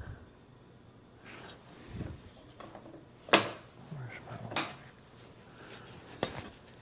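A handful of sharp metal clinks and knocks as steel shock absorber parts are handled and set against each other, the loudest about halfway through.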